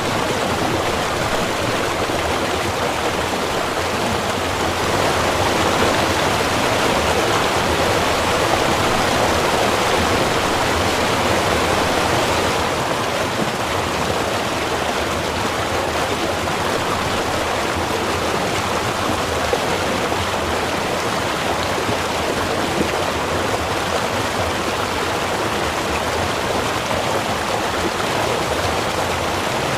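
Small river of running water rushing and babbling steadily, a little louder for several seconds near the start.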